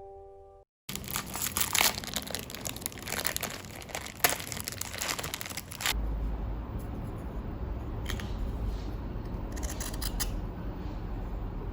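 Plastic packaging crinkling and tearing, with many sharp crackles. About six seconds in this gives way to a steady low rumble with scattered clicks.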